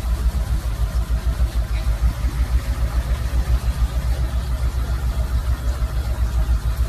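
An engine running steadily with a deep, even pulse, several beats a second.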